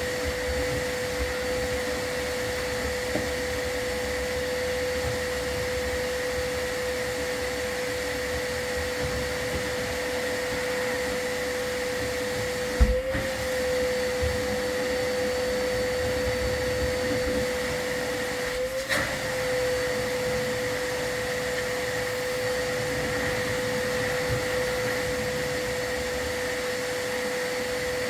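Vacuum cleaner running steadily with a constant whine over a rushing hiss. Twice, about a third and two thirds of the way through, a short knock sounds and the whine briefly wavers.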